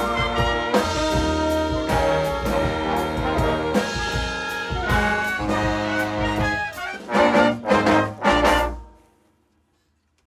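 Jazz band with a horn section playing a samba ending: the tune runs on, then closes with a few loud, short accented ensemble hits between about seven and nine seconds in, and stops dead.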